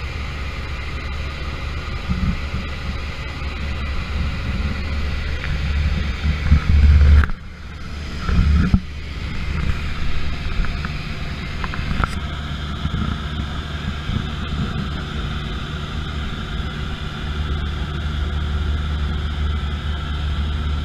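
Steady drone of an airplane's engines heard through a GoPro, a low rumble with faint steady tones over it. A few low thumps and a brief drop in level come about a third of the way in.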